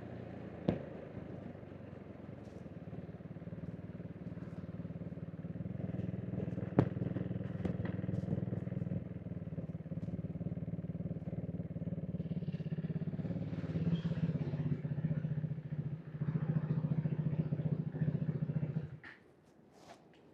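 KTM RC 390's single-cylinder engine and exhaust running steadily, with two sharp clicks, one about a second in and one about seven seconds in. The engine sound cuts off suddenly near the end.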